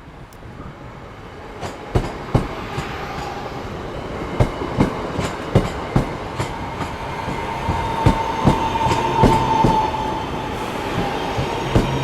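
Class 323 electric multiple unit running in: its wheels click irregularly over rail joints and pointwork, growing louder as it nears. A steady high whine sets in about halfway through and fades near the end.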